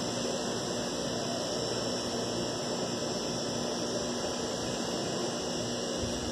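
Steady outdoor street background noise: an even hiss with a faint low hum running under it, and no distinct events.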